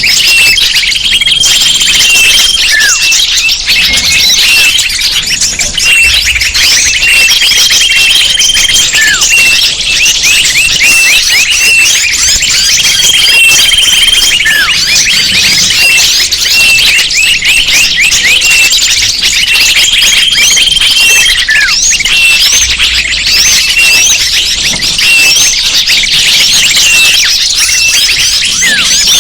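Bird-lure recording of a dense chorus of many small birds chirping and calling over one another, with a short held high whistle repeating every six or seven seconds.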